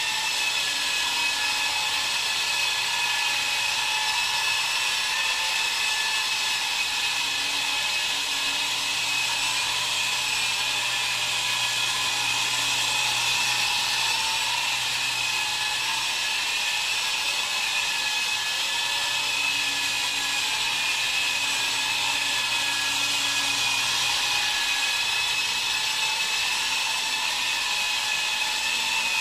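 Small electric motor of a homemade toy helicopter running at high speed, a steady high-pitched whine that stays even throughout.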